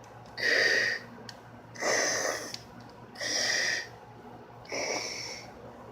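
A person breathing loudly and deliberately through the mouth, four heavy breaths spaced evenly about a second and a half apart.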